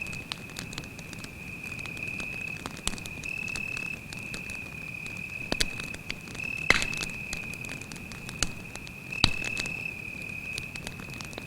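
Campfire crackling and popping, with two sharp pops standing out, one about two-thirds of the way in and another soon after. Under it a cricket keeps up a steady high trill with brief breaks.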